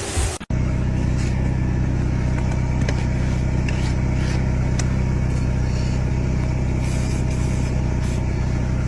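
A brief rush of noise breaks off about half a second in, then a large engine runs steadily with a low, even hum and a few faint clicks over it.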